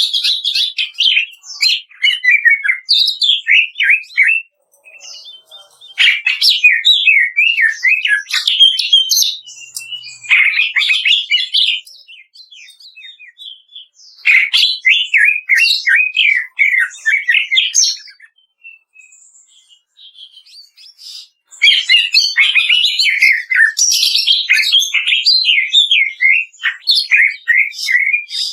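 Green leafbird (cucak ijo) singing in bursts of rapid, chattering notes, with short pauses between the bursts.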